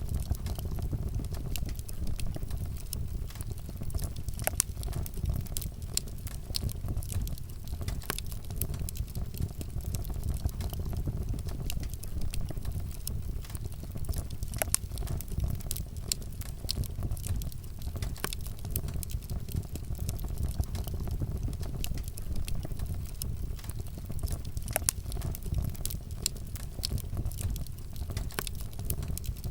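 Campfire with wood burning: a steady low rumble of the flames with irregular sharp crackles and pops from the burning wood.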